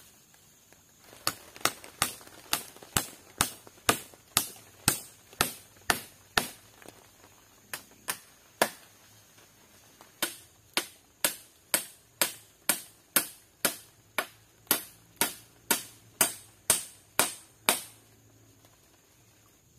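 Hand tool striking wood over and over, about two blows a second, in two long runs with a short pause near the middle.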